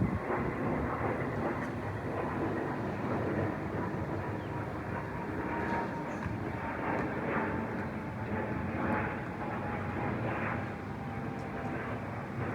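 Jet airliner passing overhead: a steady rumble of engine noise with a faint whine that slowly falls in pitch.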